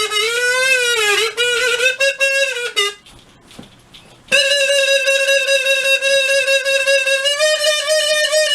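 Instrumental break in a song: a single reedy wind instrument plays a wavering melodic line, pauses about three seconds in, then holds one long steady note that dips in pitch at the end.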